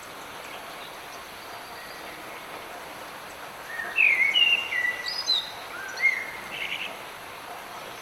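Light rain falling as a steady hiss, with a songbird singing a short phrase of chirps and whistled notes from about four seconds in, lasting roughly three seconds.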